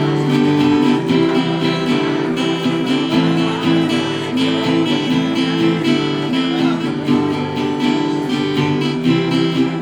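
Acoustic guitar strumming chords in a steady rhythm, unaccompanied.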